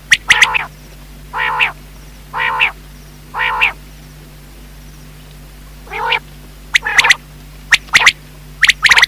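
Common quail calling: quick, sharp three-note calls near the start, around seven seconds in and near the end. Between them come lower, nasal single calls about once a second, paused for a couple of seconds.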